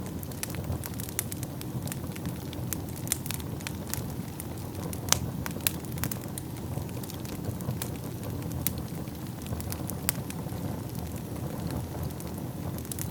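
Wood fire in a fireplace burning with a steady low rumble and irregular crackles and pops, a sharper pop about five seconds in.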